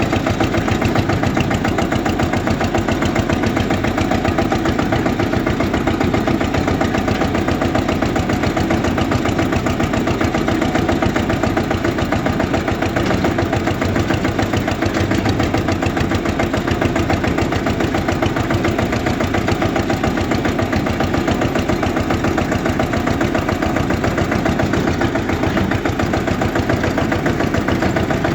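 Eicher tractor's diesel engine running steadily with an even, rapid firing beat.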